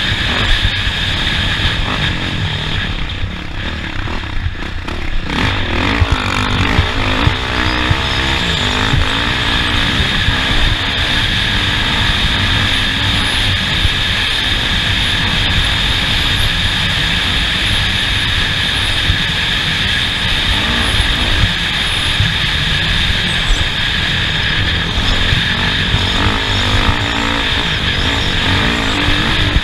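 Off-road race vehicle's engine running hard over rough ground, its pitch rising and falling with the throttle, under a constant loud rumble.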